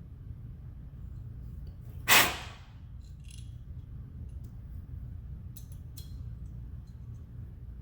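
Tools and metal faucet parts being handled: one loud, sharp clack about two seconds in, then a few faint clicks, over a steady low hum.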